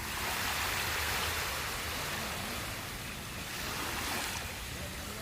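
Sea waves washing onto a sandy beach: a wave breaks and hisses up the shore at the start, fading over a few seconds, with a second, smaller surge about four seconds in.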